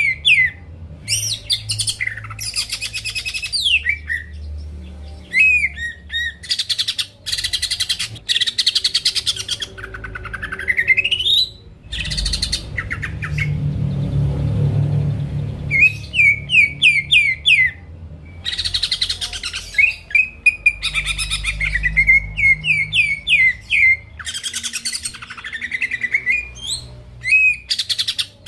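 Greater green leafbird (cucak ijo) singing a long, varied song: runs of quick rising whistled notes alternating with fast rattling trills, with hardly a pause.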